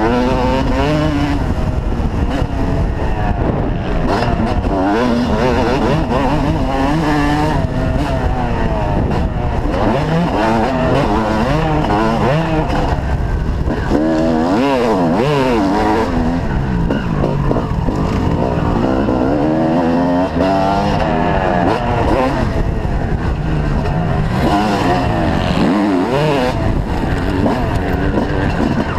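Motocross bike engines revving hard and dropping off over and over, with several engines overlapping as they rise and fall in pitch.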